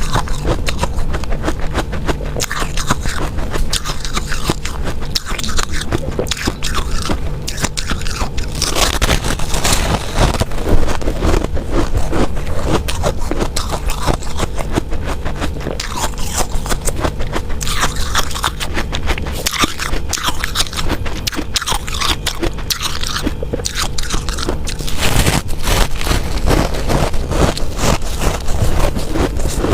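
Ice being bitten and chewed close to the microphone: a dense, unbroken run of sharp cracks and scraping crunches.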